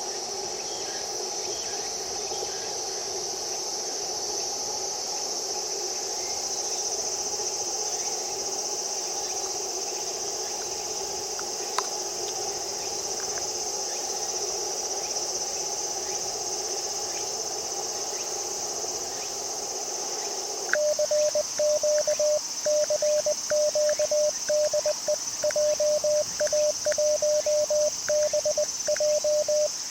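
Crickets chirring steadily over the hiss of a shortwave transceiver's receiver. About two-thirds of the way through, the hiss cuts off and a single-pitch Morse code (CW) tone starts keying out dots and dashes. There is a single click near the middle.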